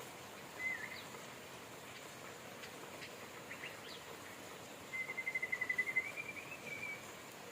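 Birds calling over a steady hiss of rain: a short call about half a second in, a few quick chirps in the middle, then a rapid trill of repeated notes in the second half that rises slightly near its end.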